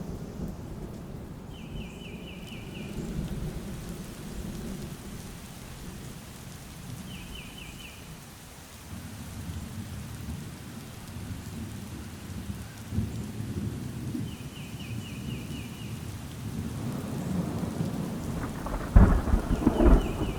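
Thunder rumbling low and continuously under steady rain, with a sharp, louder thunderclap near the end. A bird calls a short, rapid trill about four times, several seconds apart.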